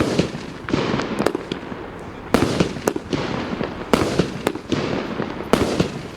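37-shot, 1-inch-calibre firework cake firing in sequence: a shot every second and a half or so, each followed by a smaller pop, with crackling between them.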